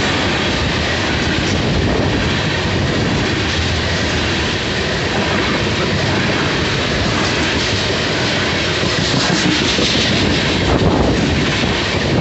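Loaded tank cars of a freight train rolling by: steel wheels running on the rails in a steady noise, with the repeated clickety-clack of wheels passing over rail joints.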